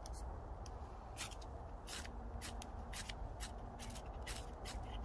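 A series of short, sharp scrapes, about fifteen spread unevenly over five seconds, from striking to light a Trangia spirit burner.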